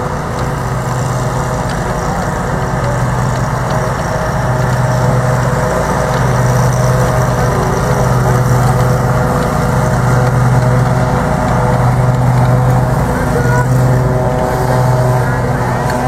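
A motor running steadily: a loud, even low drone whose hum dips briefly and returns every couple of seconds.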